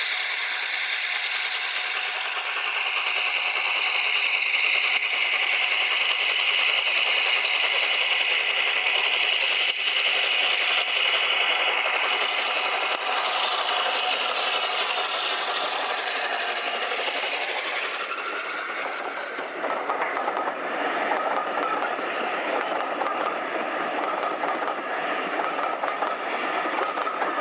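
Steam-hauled train of teak passenger coaches rolling past, wheels running on the rails with a steady clatter. A steady high tone runs through the first half and gives way to a lower one near the end.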